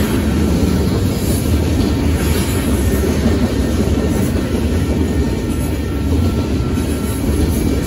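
Covered hopper cars of a long grain train rolling past: a steady, loud rumble of steel wheels on the rails.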